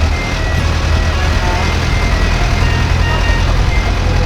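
Tourist tram's engine running steadily with a low hum, with a tinny tune of short notes playing over it.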